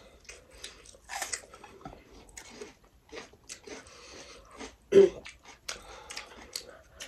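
People chewing and eating at close range, with irregular wet smacks and small clicks, and one louder knock about five seconds in.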